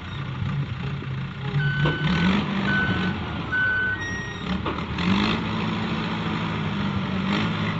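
Heavy diesel vehicle's engine running and revving up twice, with three reversing-alarm beeps between about one and a half and four seconds in.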